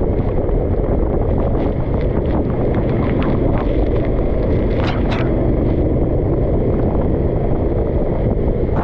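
Go-kart engine running at speed on a wet track, under heavy wind noise on the microphone, with a few sharp ticks about five seconds in and near the end.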